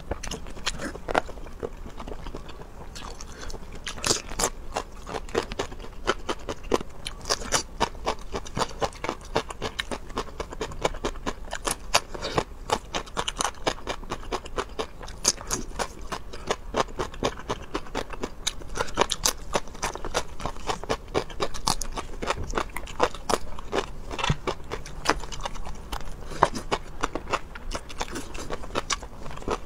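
A person eating close to the microphone, chewing and biting into crunchy food, with many irregular crisp crunches and wet mouth sounds.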